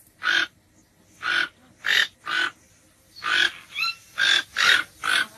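An animal's short, raspy calls, repeated about eight times in quick, uneven succession.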